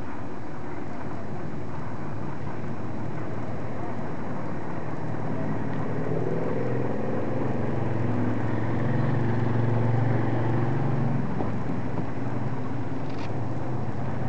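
A motor vehicle running close by: a low engine hum over steady noise, swelling to its loudest about ten seconds in, with a short click near the end.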